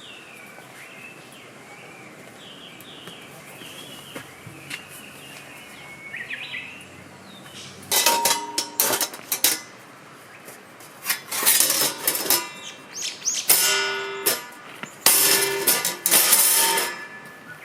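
Birds chirping faintly, then from about halfway a run of loud, irregular metallic clanks and knocks, several ringing briefly, as camp gear is handled.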